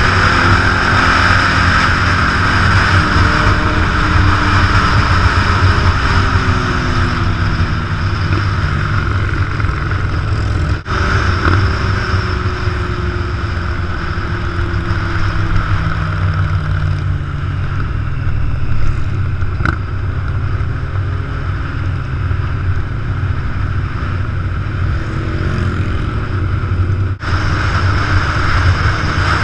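Big motorcycle engine running under way, its pitch rising and falling with speed changes. The level dips briefly twice.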